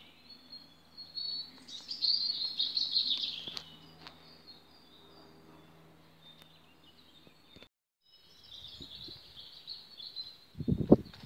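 Small songbirds singing and chirping, a dense burst of song about two seconds in and more chirping after a break. Near the end a few loud low thuds.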